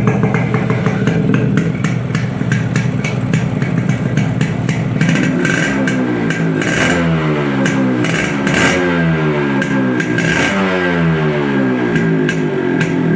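Yamaha RX100's two-stroke single-cylinder engine idling through a brass-core muffler, then blipped three times, the revs falling back to idle after each.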